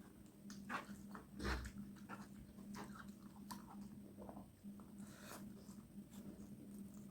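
A person chewing and eating, close to the microphone: scattered small wet smacks and crunches, with a louder one about a second and a half in, over a faint steady hum.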